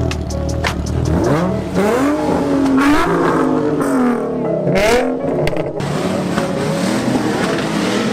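Nissan 350Z's V6 engine revving as the car moves off, its pitch rising and falling several times, with one sharp crack about five seconds in.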